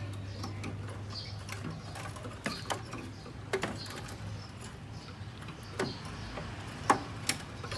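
Scattered sharp clicks and taps of handling, with faint short high chirps of nestling songbirds, over a steady low hum.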